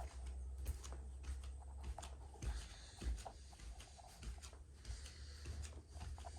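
Footsteps climbing a flight of stairs: a run of soft, irregular thuds over a low steady rumble.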